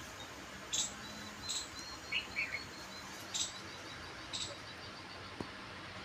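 Small birds chirping: short, sharp high calls repeating roughly once a second, a lower two-note call about two seconds in, and a faint quick series of high ticks.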